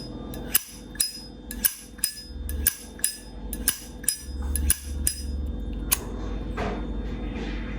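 1976 brushed-chrome Zippo lighter, its lid flicked open and snapped shut again and again: a quick run of sharp metallic clicks that stops about six seconds in.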